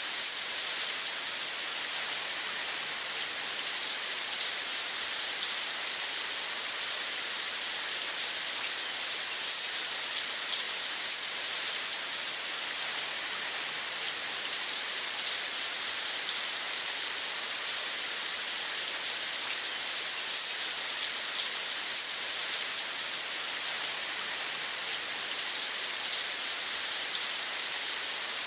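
Steady rain falling, an even hiss of many small drops that neither builds nor fades.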